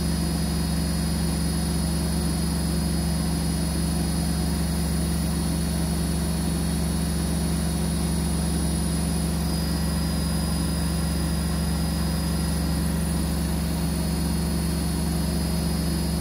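Siemens front-loading washing machine in its final high-speed spin, at about 1400 rpm. It gives a steady low hum with a constant high whine.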